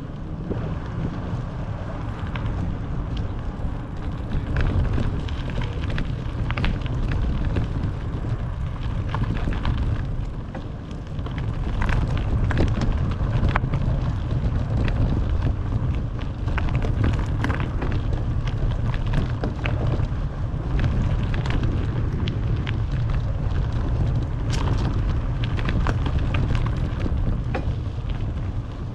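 Wind buffeting an action camera's microphone on a moving bicycle, a steady low rumble, with scattered sharp ticks and rattles throughout.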